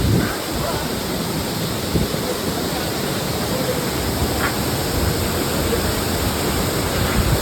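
Rushing waterfall: a steady roar of falling water close to the microphone, with faint voices under it.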